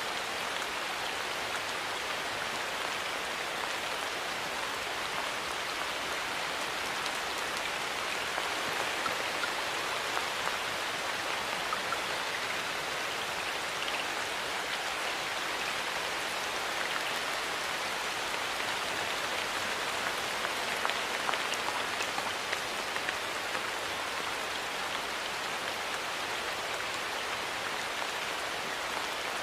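Steady rainfall, drops pattering on surfaces with scattered faint ticks of single drops.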